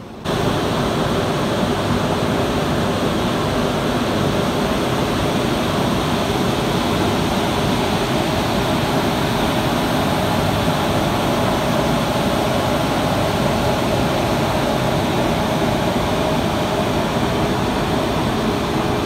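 Train hauled by an Indian Railways electric locomotive passing close by: a loud, steady rushing rumble that starts abruptly just after the start and holds level throughout.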